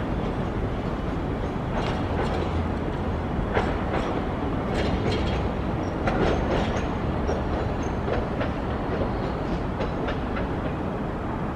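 Hiroshima Electric Railway streetcar running on street track: a steady rumble with many irregular wheel clacks and knocks, and a faint high whine around the middle.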